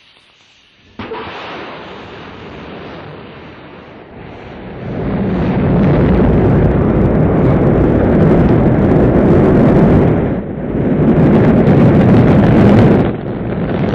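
Rocket engines roaring at a launch: the noise starts abruptly about a second in, grows much louder around five seconds in, and holds as a dense, loud rumble with two short dips near the end.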